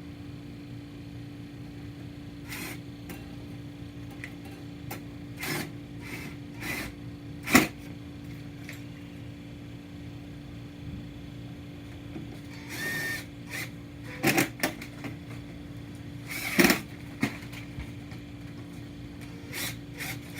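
Metal parts and tools being handled on a Blizzard mixer: scattered clicks and knocks, the loudest about seven and a half seconds in and a short rattle around thirteen seconds, over a steady low hum.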